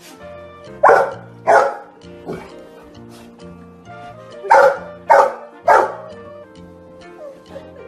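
A dog barking in short bursts, two barks about a second in and then three more in quick succession a few seconds later, over background music with a steady beat.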